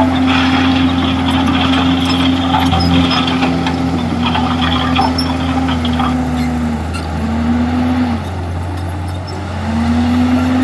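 Diesel engine of a Komatsu D51EX bulldozer working under load, with scattered clanking. The engine's pitch dips twice past the middle, then rises back near the end.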